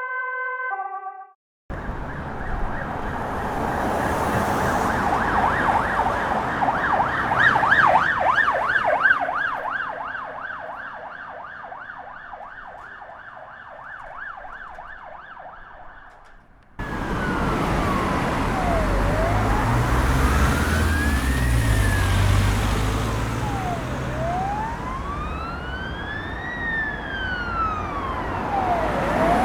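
Police car sirens: first a fast-warbling yelp that fades away over several seconds, then, after a sudden change to another recording, a slow wail rising and falling about every five seconds over a vehicle's engine rumble. A brief electronic jingle of stepped tones plays at the very start.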